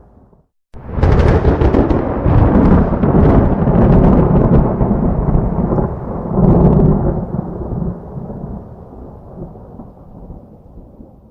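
A thunderclap: a sudden crackling crack just under a second in, breaking into a long low rumble. The rumble swells again about halfway through, then dies away slowly.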